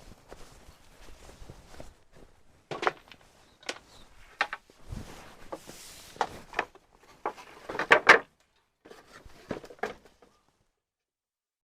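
Irregular knocks, clicks and rustling of objects being handled, with a loud cluster of knocks about eight seconds in, then stopping suddenly a little after ten seconds.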